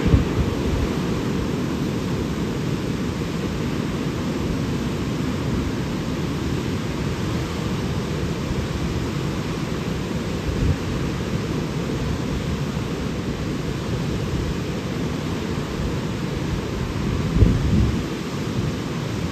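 Steady rushing of a waterfall, with low wind rumble on the microphone that swells briefly at the start and again near the end.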